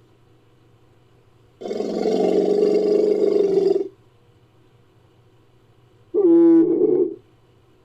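Designed Columbian mammoth creature calls, twice: a long call of about two seconds, then after a pause a shorter call of about a second.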